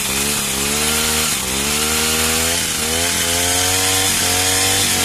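A petrol pole pruner's small engine running under throttle, its pitch climbing and dropping back about four times as the chain saw works.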